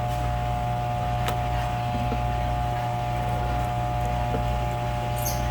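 Steady machine hum, with a few faint clicks and taps over it.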